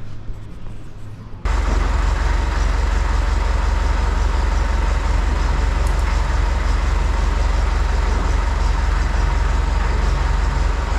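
A heavy engine running steadily, starting abruptly about a second and a half in with a deep, even rumble.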